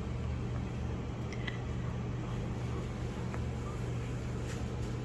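Steady low mechanical hum, like a fan or small motor running, with a few faint clicks and a faint short puppy squeak near the end.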